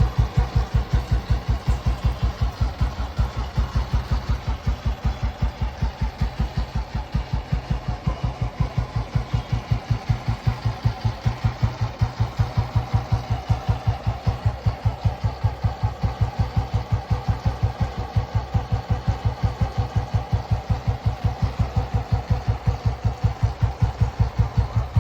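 1981 Royal Enfield Bullet's single-cylinder four-stroke engine idling with an even, steady thump-thump beat. It is running quietly after cam wheel work, which the owner calls silent.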